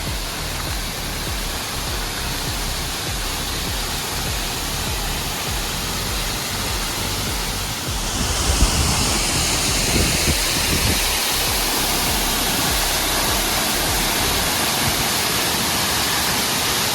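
Rushing water of a monsoon waterfall, a steady hiss-like rush that grows louder and brighter about eight seconds in.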